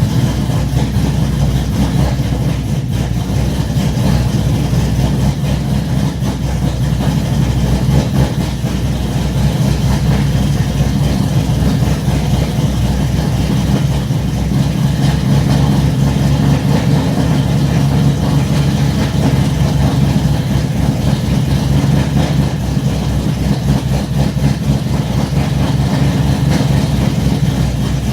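2017 Ford Mustang GT's 5.0-litre V8 idling steadily, straight-piped through long-tube headers with the cats, mufflers and resonators removed.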